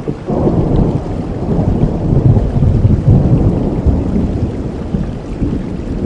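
Steady rainfall with a long, deep rumble of thunder that swells in shortly after the start, is loudest around the middle and slowly eases off.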